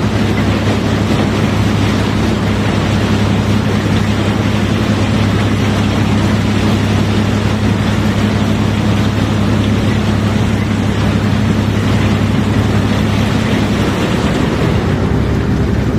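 A large engine running steadily: a low, even drone with a constant rushing noise over it.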